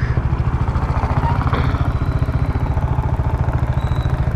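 Motorcycle engine running steadily under way, a fast even beat of firing pulses with road and wind noise above it. It is picked up by a lavalier mic inside the rider's helmet.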